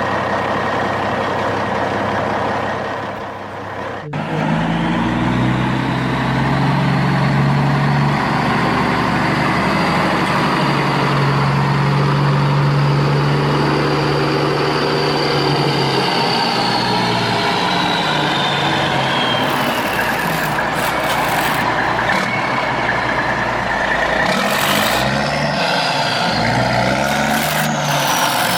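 Truck engine sound running with changing pitch, cutting off sharply about four seconds in and starting again louder. A high whine rises, holds, then falls away in the middle.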